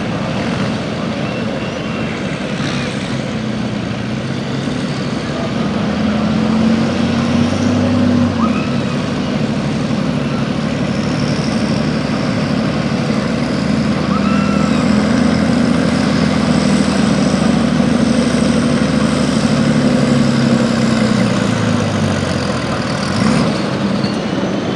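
Pulling vehicle's engine running hard under load as it pulls the sled. Its pitch climbs twice, then drops away near the end.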